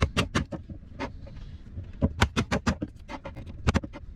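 Homemade hammer striking wood in irregular runs of sharp knocks, a quick run of about six blows in the middle, as a piece is trimmed off.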